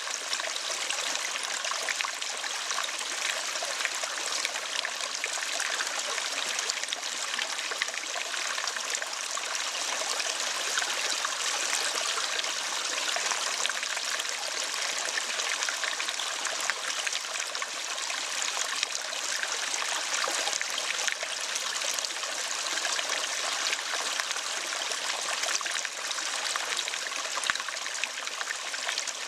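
Steady sound of running water, like a trickling stream, with no birdsong: the water-sound pause between lovebird chatter tracks.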